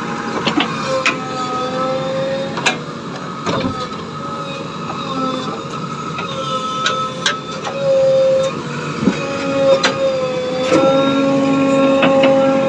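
Machinery running with a steady whine that shifts slightly in pitch, with scattered sharp clicks and knocks.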